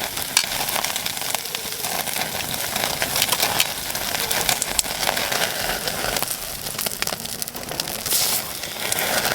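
Beef sirloin sizzling on a grill over a wood campfire: a steady hiss of fat frying, with frequent sharp pops and crackles.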